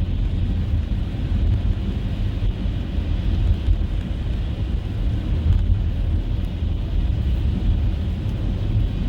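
Car driving on a snow-covered road: a steady low rumble of engine and tyre noise.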